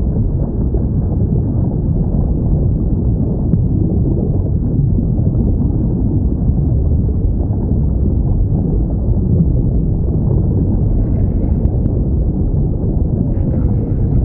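Underwater whale recording: a steady, loud, low rumble of ocean noise, with a faint falling whale call near the end.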